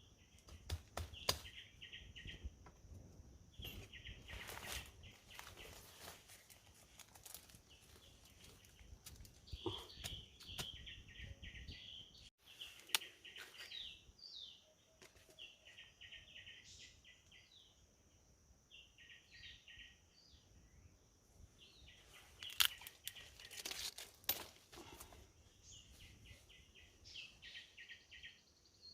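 Faint outdoor ambience: a bird repeats a short call of rapid chirping notes every second or two over a steady high drone. Bursts of rustling and crackling, like vegetation being handled, come a few times and are the loudest sounds.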